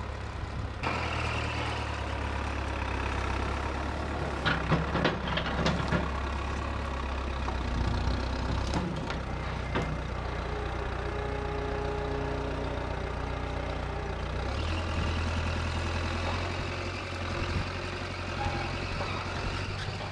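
A heavy engine running steadily, its note shifting about a second in and again about three-quarters of the way through. There is a cluster of sharp clanks and knocks around five seconds in, and two single ones a few seconds later.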